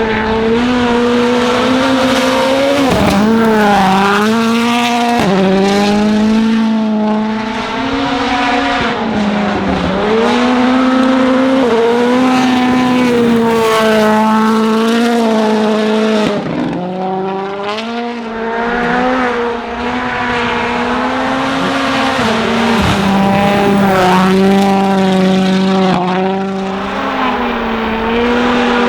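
Ford Fiesta WRC rally car's turbocharged 1.6-litre four-cylinder engine at full throttle on a gravel stage. The engine pitch dips briefly and climbs again every few seconds as it changes gear and lifts.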